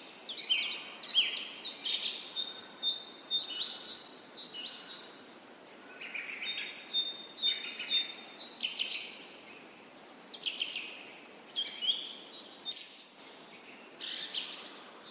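Birds chirping and singing: many quick downward-sliding chirps and short high whistled notes, coming in bursts with brief lulls between them.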